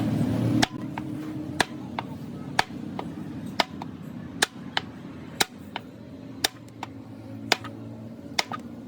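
Hammer blows, roughly one a second, with lighter taps in between, over a steady low hum.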